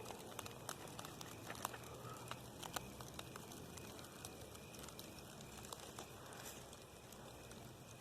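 Small campfire of twigs just catching, with faint irregular crackles and pops over a low hiss.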